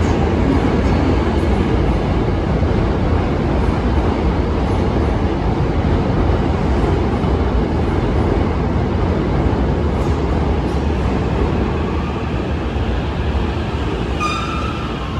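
Hankyu electric train running on the rails, a loud, steady rumble of wheels and motors that slowly fades over the last few seconds as it moves away. A brief high-pitched squeal sounds near the end.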